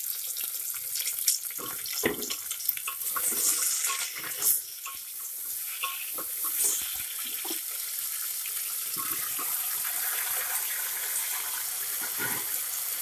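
Sliced potatoes sizzling in hot oil in a pressure cooker, with a steady hiss. During the first few seconds a wooden spatula knocks and scrapes against the pot as the potatoes are stirred.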